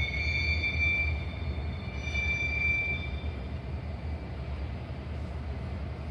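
Train running on its rails with a steady low rumble, its wheels giving a thin high squeal that fades after about three seconds.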